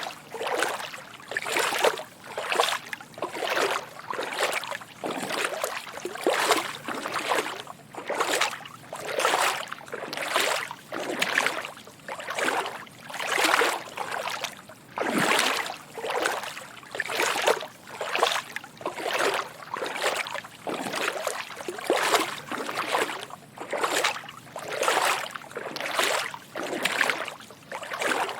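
Footsteps wading through shallow water, a soft slosh and splash with each step. The steps come at a steady walking pace, a little more than one a second.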